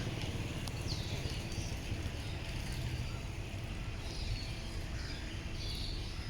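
Steady low rumble of a river cruise boat's engine, with birds chirping short, falling calls several times over it.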